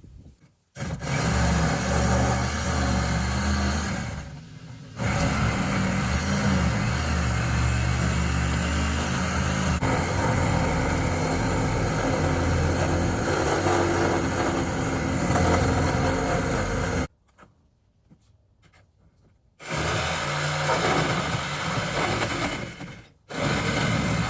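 Power saw cutting through the grain box's 1-inch plywood decking in long runs. It stops briefly about four seconds in, falls silent for a couple of seconds later on, and cuts out once more just before the end.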